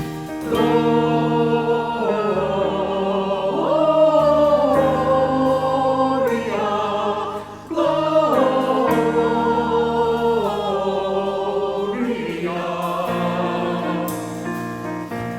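Choir singing long held notes with vibrato, with a brief drop in level about seven and a half seconds in.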